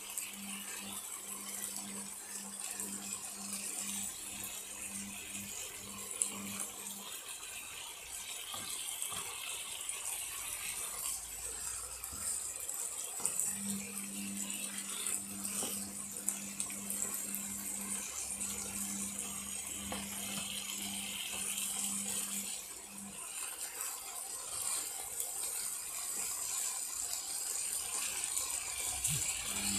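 Chicken and red and green capsicum sizzling in a frying pan as they are stirred with a spatula, a steady hiss with a few small clicks.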